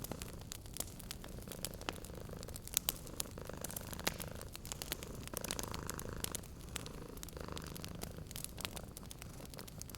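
A cat purring in soft swells about a second apart, with a wood fire crackling through it in many sharp pops and snaps.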